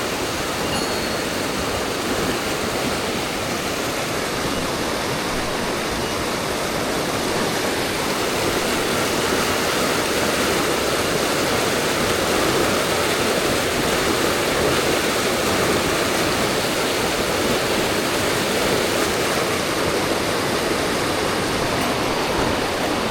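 Mountain stream water rushing, a steady, even noise throughout.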